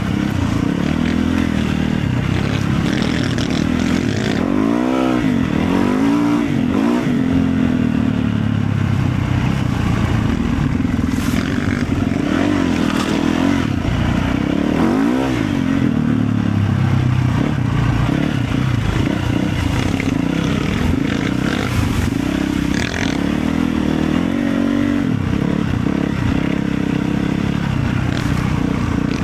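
Motorcycle engine running under way, its pitch rising and falling with the throttle several times.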